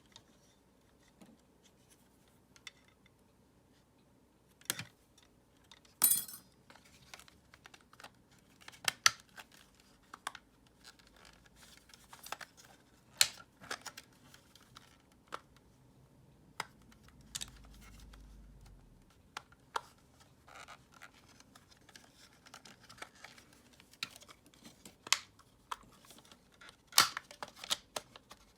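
Irregular clicks, taps and scrapes of hard plastic parts and small tools being handled, with a brief low hum about two-thirds of the way through.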